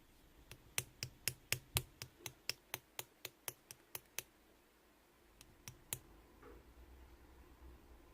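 Clear slime being squeezed and pressed by hand, giving sharp little clicking pops about four a second for around four seconds. Three more clicks follow near the end.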